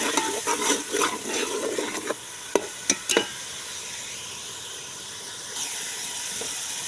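A metal ladle stirs and scrapes tomato-onion masala frying in ghee in a metal pot, with three sharp taps of the ladle about two and a half to three seconds in. After that the frying masala sizzles steadily.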